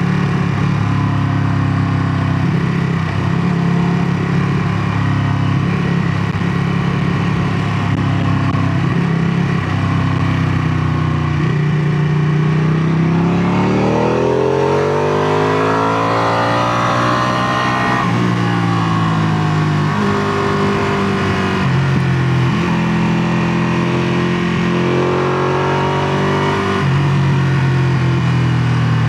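Ducati Panigale 959's 955 cc Superquadro L-twin engine running. Its pitch climbs steadily for about five seconds midway, drops sharply, then rises and falls in shorter steps.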